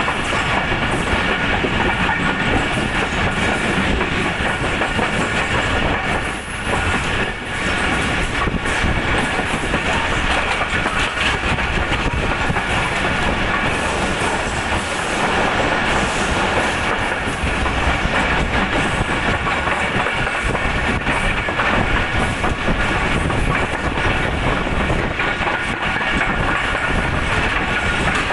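A passenger train running through a station, heard from aboard one of its coaches: the steady rolling noise of the coach wheels on the rails. The noise briefly drops twice around six to seven seconds in.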